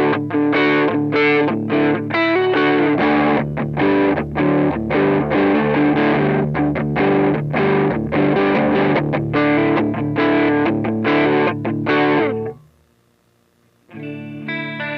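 Electric guitar played through a Nux MG-300 multi-effects processor on a distorted patch, a fast picked riff with many short, chopped notes. It stops about twelve and a half seconds in, and after a short silence a duller guitar tone starts near the end.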